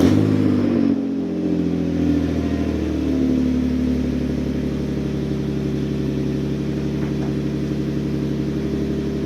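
Infiniti FX35's 3.5-litre V6 running through a custom Borla exhaust: it flares just after starting, settles down over the next couple of seconds and then holds a steady idle.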